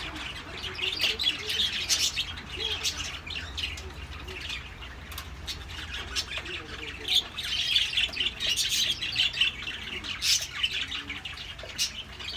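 Birds chirping: a dense, uneven run of short calls.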